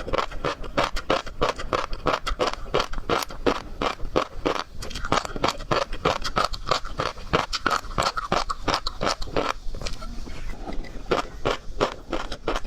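Close-miked chewing and crunching of seafood, a dense run of crackles and wet clicks, thinning briefly about ten seconds in.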